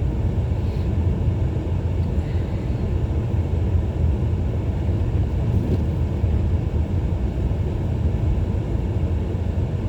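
Steady low rumble inside a car's cabin: the car's engine and running gear.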